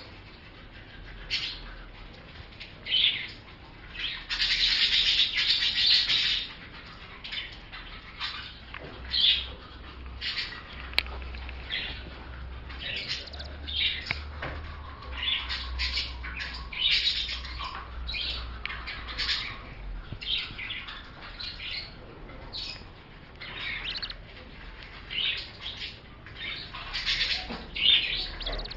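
Young lovebirds chirping: many short, high calls in irregular bursts, with a louder two-second burst about four seconds in.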